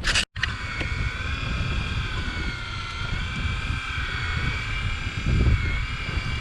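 Steady motor whine with several even pitches, drifting slightly in pitch, over low wind rumble; it starts just after a brief dropout at the beginning.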